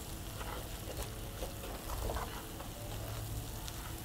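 Fish pieces and chopped peppers sizzling in hot oil in a frying pan, stirred with a wooden spatula, with a few short scrapes and knocks over a steady sizzle.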